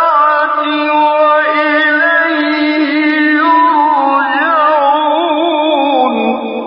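A male reciter chants the Quran in the melodic tajweed (mujawwad) style. He holds long notes ornamented with wavering melisma, and the line falls lower near the end.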